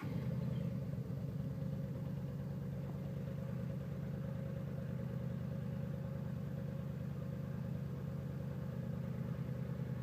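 Yamaha V-Star 950's air-cooled V-twin engine, just started and idling steadily.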